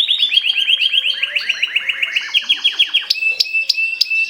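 Mosaic canary singing: a fast trill of repeated down-sweeping notes, about eight a second. About three seconds in it changes to a slower phrase of sharp clicked notes, each with a short steady whistle.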